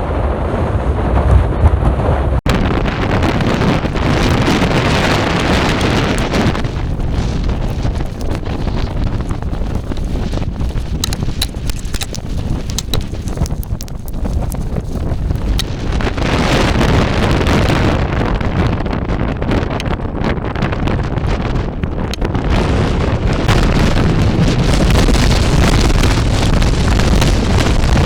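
Strong wind of a desert sandstorm buffeting the microphone: a loud, even rushing noise that swells and eases in long gusts.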